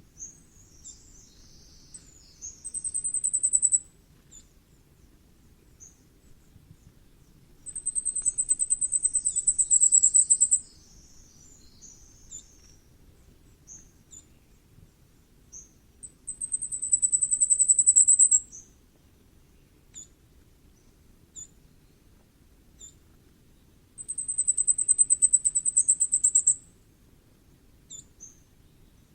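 Common firecrest singing: four songs, each a fast run of very high, thin notes that grows louder, with short, high call notes between them.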